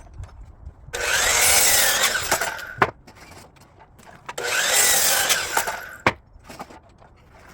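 DeWalt 12-inch sliding miter saw crosscutting wood blocks to a stop, twice, each cut about two seconds long, with the motor's pitch bending as the blade passes through the wood. A sharp knock follows each cut.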